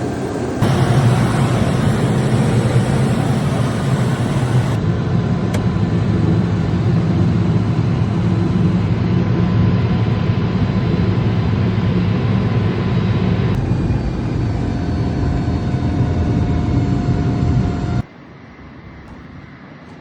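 Steady drone of a small airplane's engine and airflow, heard from inside, in several clips joined by abrupt cuts; it drops much quieter after the last cut near the end.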